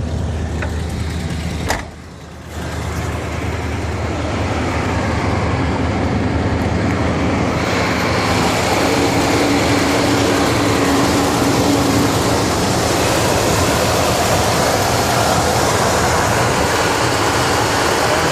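1973 Cadillac Eldorado's 500 cubic-inch V8 running as the car gets under way, with a sharp clack about two seconds in and a brief drop in sound. Road and engine noise builds over the next few seconds and then holds steady.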